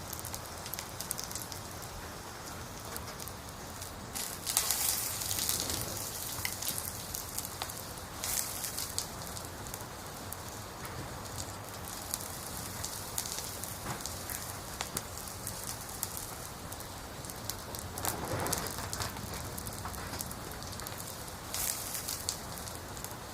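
Wood fire burning: a steady hiss dotted with many small crackles and pops, swelling louder briefly a few times.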